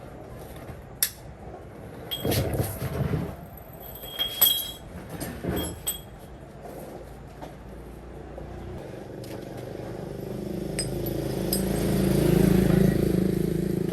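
A few sharp metallic clinks and knocks, then a motor that grows steadily louder from about eight seconds in, loudest near the end.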